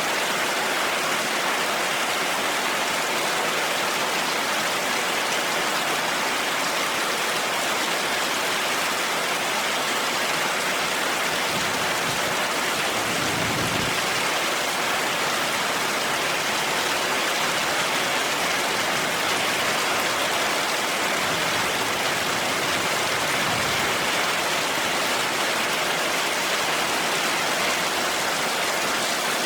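Heavy rain falling in a steady, dense hiss. A brief low rumble swells up about halfway through.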